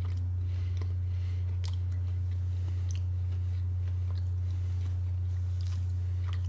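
A person chewing a bite of breaded fried chicken tender, with faint scattered crunching and mouth clicks. A steady low hum runs under it and is the loudest sound.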